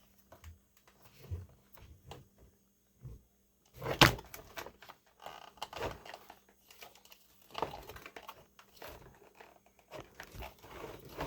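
Plastic parts of a Hoover carpet shampooer being handled and fitted back together: scattered clicks and knocks, with one sharp knock about four seconds in.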